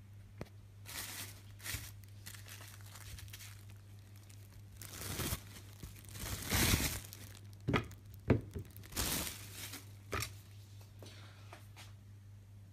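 Plastic wrapping crinkling and tearing in irregular bursts, with a few sharp clicks, over a steady low hum.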